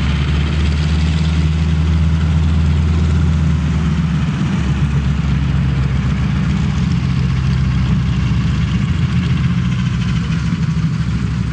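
An engine idling steadily, a deep even hum that shifts slightly about four seconds in.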